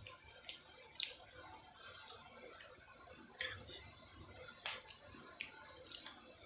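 Close-up eating sounds of a person chewing noodles: wet mouth clicks and smacks, roughly two a second at an uneven pace, with a slightly longer wet smack about halfway through.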